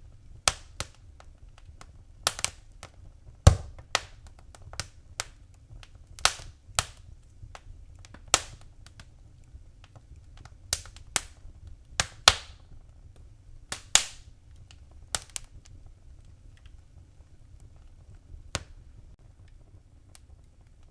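Wood fire in a fireplace crackling: irregular sharp pops and snaps, a few much louder than the rest, over a low steady rumble.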